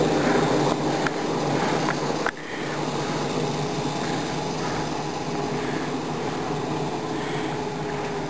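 Backyard ride-on railroad train running along its track: a steady mechanical running noise with a few held tones, which drops off sharply a little over two seconds in and then carries on quieter.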